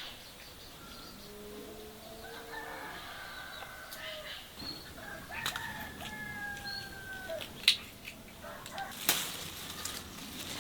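A rooster crowing in long, slightly falling calls, with other fowl calling and a few sharp knocks near the end.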